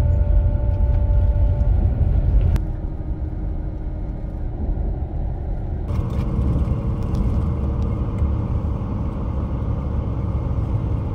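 Intercity coach bus running on the road, heard from inside: a loud, steady low rumble of engine and road noise with faint steady tones. It shifts abruptly twice, about two and a half and six seconds in.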